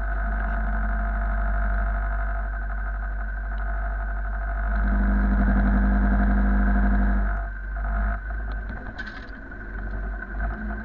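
A machine engine running steadily. It gets louder and works harder for a couple of seconds near the middle, then eases off to a rougher, quieter run.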